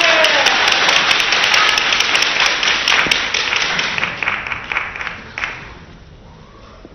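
Crowd in an indoor hall applauding with many sharp claps, loud at first and dying away about five to six seconds in.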